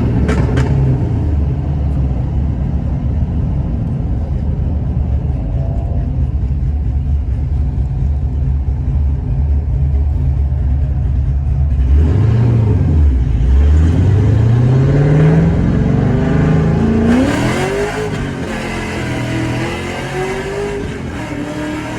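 LS V8 engine in a Nissan 350Z running through an unmuffled 2.5-inch X-pipe exhaust with no mufflers or resonators. It holds a steady note for about twelve seconds, then the revs climb hard in a pull, drop briefly at a shift and climb again near the end.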